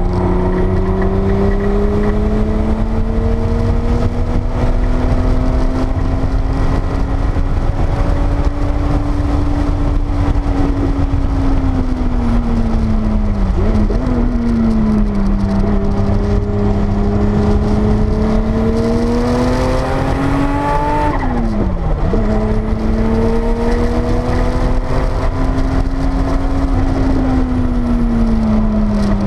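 Porsche 930 Turbo's air-cooled turbocharged flat-six from inside the cabin on track, the engine pitch rising and falling with speed. The pitch dips sharply and recovers about 13 seconds in, then climbs to a peak with a brief hiss and drops sharply about 21 seconds in.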